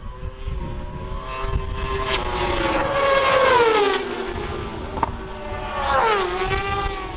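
Racing motorcycles going past at speed, the engine note dropping in pitch as each goes by: one swells to its loudest about three and a half seconds in, and a second sweeps past near the end with a sharp drop in pitch.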